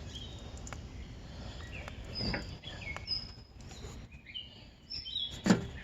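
Small birds chirping in short high notes over a steady low background rumble, with a sharp knock a little over two seconds in and a louder thump near the end.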